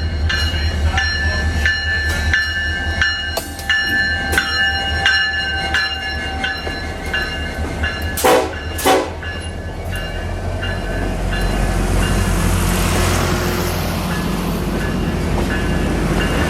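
Locomotive bell ringing at a steady pace over a low rumble, then two short horn toots about eight seconds in. The train then gets under way, and the rolling noise grows.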